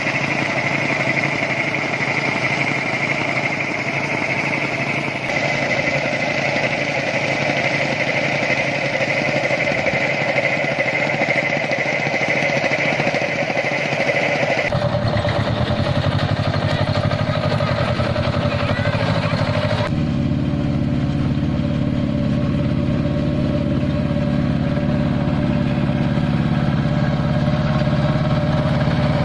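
Walking tractor engines running steadily. The engine sound changes abruptly about 5, 15 and 20 seconds in, and from about 15 seconds on it becomes a deeper, heavier running.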